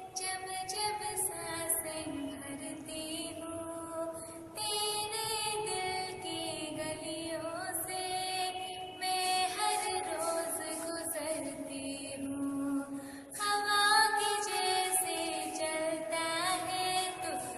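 A girl singing a slow Hindi song melody, holding long notes and sliding between them.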